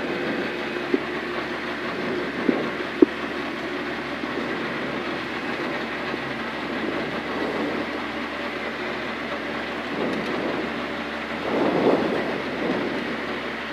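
Citroën C2 R2 Max rally car's engine idling steadily, heard from inside the stripped cabin while the car waits at the start. A few sharp clicks in the first three seconds and a short swell about twelve seconds in.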